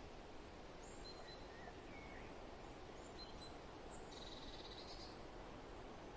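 Soft, steady wind blowing, with birds chirping here and there and a short rapid trill about four seconds in.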